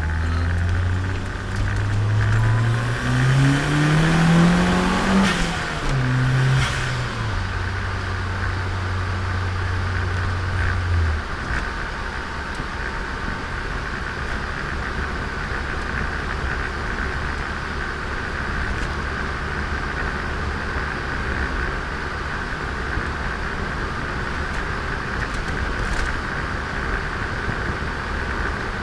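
Turbocharged Nissan Micra engine heard from inside the car, its note rising in pitch as it speeds up for about five seconds, then dropping back and holding steady until it falls away about eleven seconds in, leaving steady road and tyre noise.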